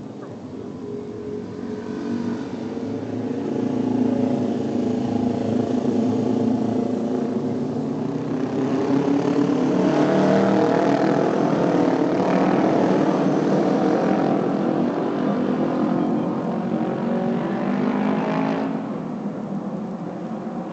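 Motorcycle engines running on a race track, several at once, getting louder from about eight seconds in and dropping off again near the end.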